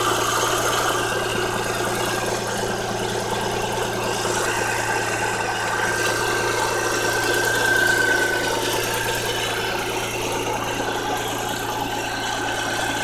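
1994 Geo Metro's three-cylinder engine idling steadily, heard up close under the open hood, with its belts spinning. A faint whine joins in about four seconds in and fades out a few seconds later.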